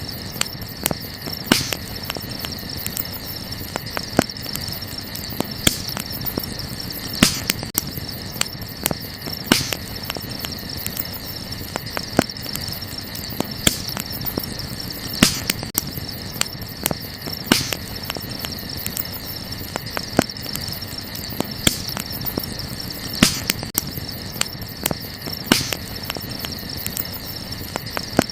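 Wood fire crackling, with irregular sharp pops every second or two, over a steady high-pitched insect chorus.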